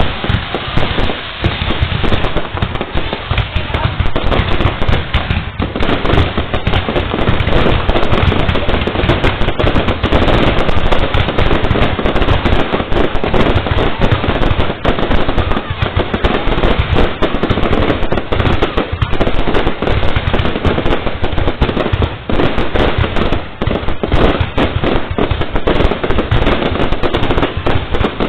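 Fireworks display going off in a dense, continuous barrage of loud bangs.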